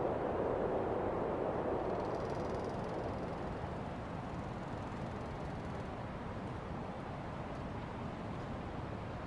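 Blizzard wind blowing in a steady rush. A gust eases off over the first few seconds and the wind then carries on at a lower, even level.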